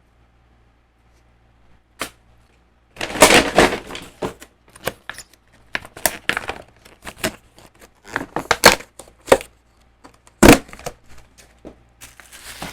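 Seafood shells being handled and broken apart: a run of sharp, irregular cracks and clicks starting about three seconds in, with one louder crack near the end.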